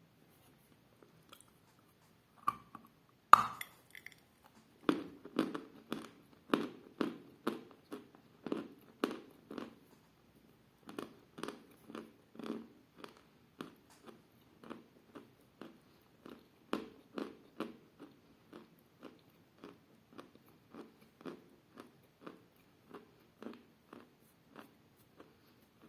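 A piece of chalk bitten off with a sharp crack about three seconds in, then chewed in a steady run of short, dull crunches about twice a second that grow gradually quieter as it breaks down in the mouth.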